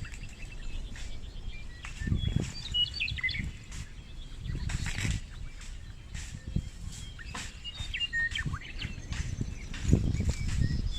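Birds chirping in short calls, in bursts about a third and three-quarters of the way through. Under them run irregular low rumbling and rustling thumps, which are the loudest sound.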